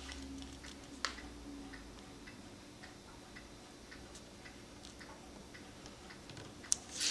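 Mechanical clock ticking faintly and steadily, with a sharper click about a second in and another near the end.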